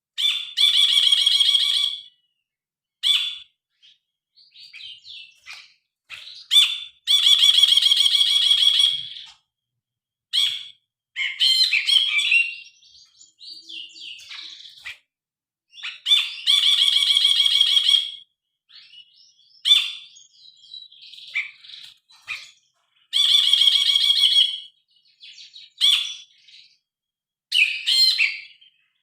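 Brinji kelabu (cinereous bulbul) singing in full voice: about every seven seconds it gives a long buzzy note lasting about two seconds, and between these come short sharp calls and up-and-down warbled phrases.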